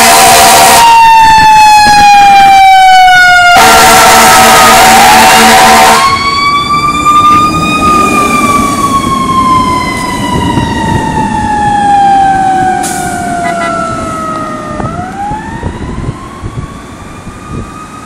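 Fire engine's siren wailing, its pitch sliding slowly down and then swinging quickly back up. Over the first six seconds, loud blasts of a steady-pitched horn sound over it. The siren then fades steadily as the engine moves away.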